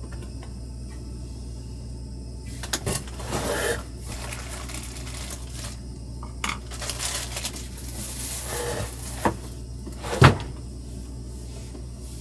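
Dishes and utensils being handled: scattered clinks, rustling and knocks, the loudest a single sharp knock about ten seconds in, over a steady low hum.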